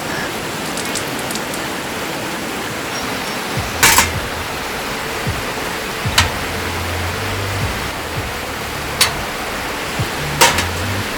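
Steady rush of a stream running over rocks, with four sharp knocks breaking through it.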